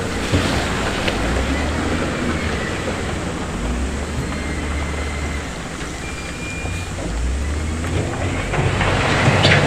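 Heavy diesel construction machinery running under load, its low engine drone rising and falling, with louder gritty, rattling swells near the start and again near the end.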